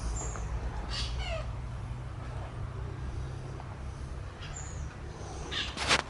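Birds calling from an aviary: short high falling chirps and a quick run of falling notes about a second in, then a loud harsh burst near the end. A low rumble on the microphone runs underneath.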